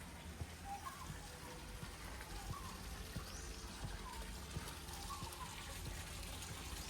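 Outdoor ambience of small birds: scattered short chirps and a brief rising call that repeats about every three and a half seconds, over a low steady rumble.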